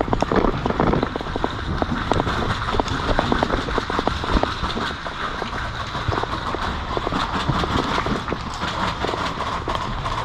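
Footsteps and the clatter of carried gear from a player on the move, many irregular knocks over a steady rustling noise.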